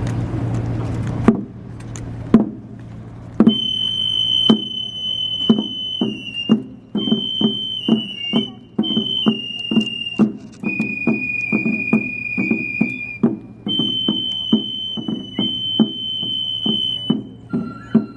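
Minshingaku (Ming-Qing Chinese-style) music: sharp percussion strikes set in about a second in at a steady beat of roughly two a second, and a few seconds later a piercing high melody line joins in long held notes that step down and back up in pitch.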